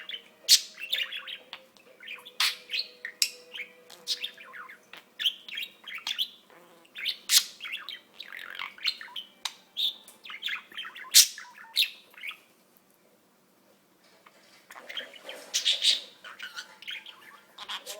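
Pet budgerigar chattering, with rapid sharp chirps and clicks. It goes quiet for about two seconds past the middle, then starts chattering again.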